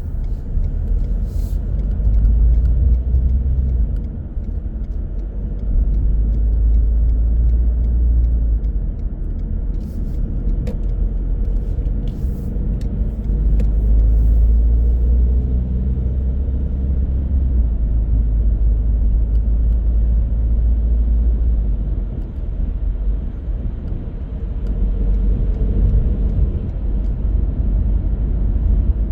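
A car driving along at speed: a steady low rumble of road and engine noise, with a few faint clicks in the middle.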